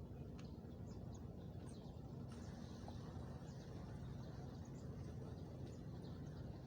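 Faint evening ambience by the river: a steady low rumble with scattered short, high chirps.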